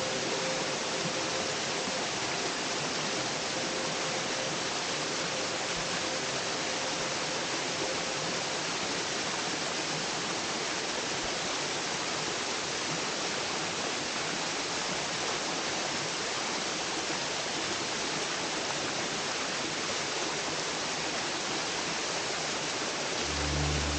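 Waterfall on a brook: a steady rush of falling and cascading water.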